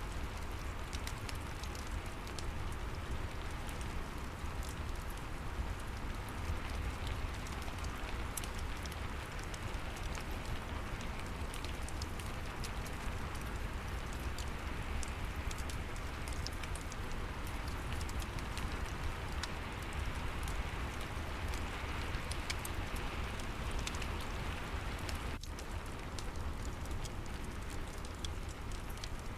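Steady rain with scattered fireplace crackles, over a low steady rumble.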